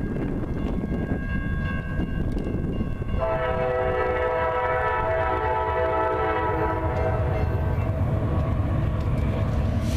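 Freight train's locomotive air horn sounding a long blast, a chord of notes starting sharply about three seconds in and fading out near the end. The rumble of the train runs underneath and grows louder in the second half.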